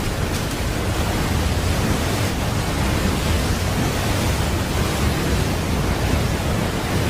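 Anime battle sound effect: a steady, rumbling roar of noise, heavy in the low end, that runs on without a break.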